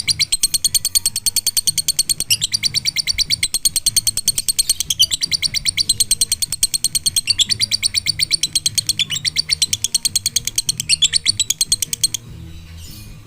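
Lovebird singing a long, unbroken ngekek: rapid high chirps at about ten a second, with only a few brief catches, stopping abruptly about a second before the end. The nonstop length is what lovebird keepers call 'konslet'.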